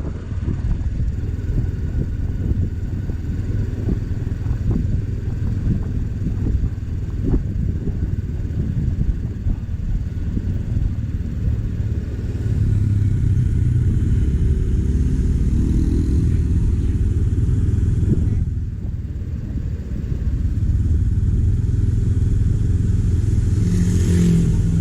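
Motorcycle engine running steadily while riding. It grows louder about halfway through, dips briefly, then picks up again near the end.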